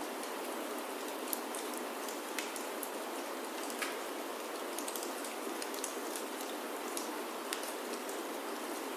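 Steady rain falling on a wooden chalet roof, with irregular sharp crackles from a wood fire in the fireplace scattered through it.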